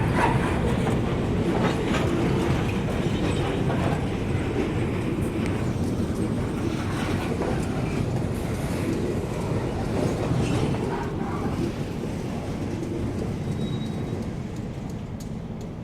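Train rolling past, a steady rumble with wheels clacking over the rail joints, slowly fading near the end.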